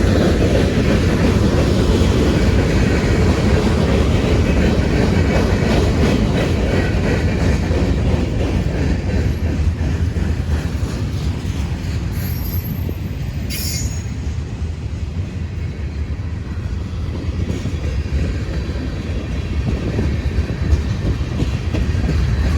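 A train rolling past close by: a steady rumble of wheels on the rails with clickety-clack and some wheel squeal. It eases a little about halfway through, then builds again.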